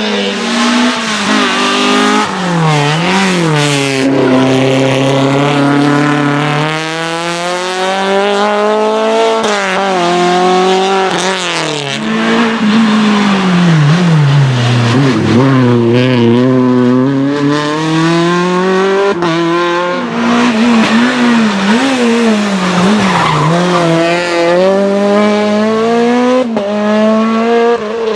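A race car's engine revving hard and continuously, its note climbing and dropping every few seconds as it accelerates, lifts and shifts through the slalom, with tyres squealing.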